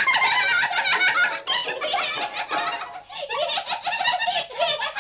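Several high-pitched voices giggling and laughing over one another, with a short lull about three seconds in.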